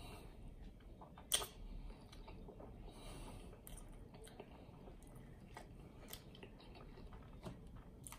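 Close-miked chewing of a mouthful of cheeseburger with the mouth closed: faint wet mouth clicks and smacks, with one sharper click about a second and a half in.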